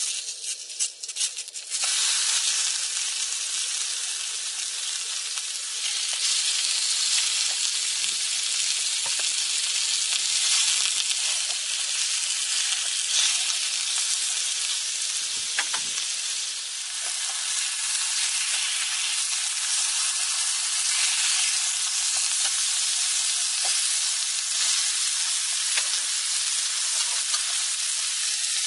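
Food frying in a pan, a loud, steady sizzle with a few sharp crackles in the first two seconds.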